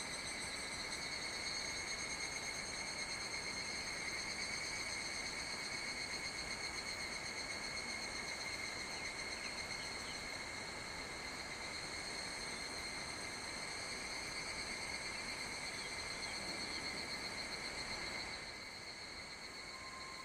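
Summer insects singing in a steady, high, buzzing chorus over a faint background hiss, easing off a little near the end.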